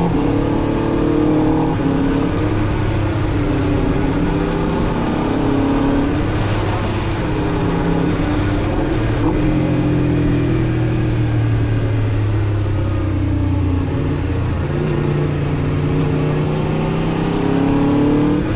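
Aprilia RSV4 RR's V4 engine through its stock exhaust, heard from the rider's seat while riding, its note rising and falling several times as the throttle opens and closes.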